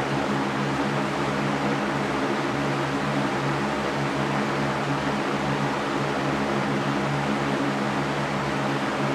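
Electric fan running steadily: an even rushing of air with a low motor hum beneath it.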